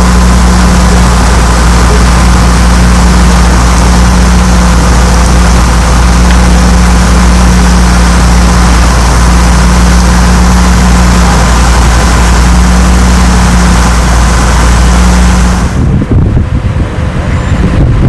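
A large engine, likely a fire apparatus, running steadily close by: a loud, even hum with a deep drone. It cuts off suddenly near the end, leaving uneven, gusty noise.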